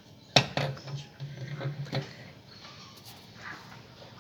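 A series of sharp clicks and knocks, two loud ones just under half a second in and more through the next second and a half, with a low hum between them and a few fainter ticks near the end, as of something mechanical being handled.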